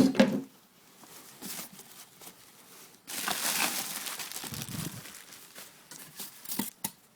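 Packaging rustling and crinkling as it is handled, loudest for a couple of seconds about three seconds in, with a few light knocks near the end.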